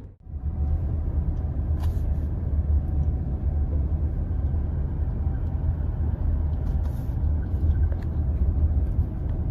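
Steady low rumble of road and engine noise inside a Toyota Sienna minivan while it is driven.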